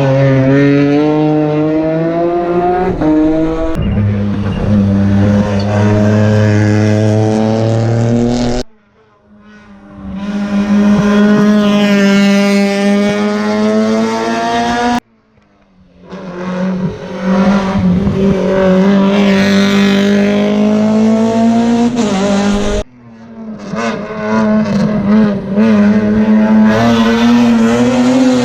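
Rally car engines revving hard under full acceleration, their pitch climbing, in four separate passes that cut off abruptly between them.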